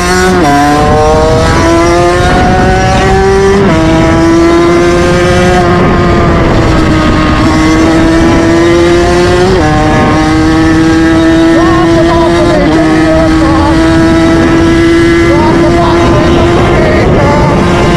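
Moped engine at high revs while riding: the note climbs in the first second, then holds high and nearly steady, with small pitch jumps about four and ten seconds in, over a low rushing of wind.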